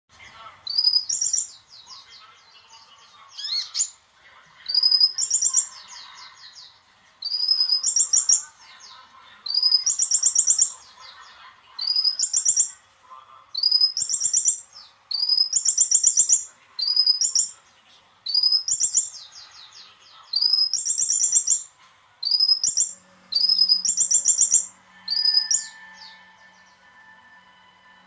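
A konin songbird singing actively, repeating one fast, high-pitched chirping phrase over and over, about every one and a half to two seconds.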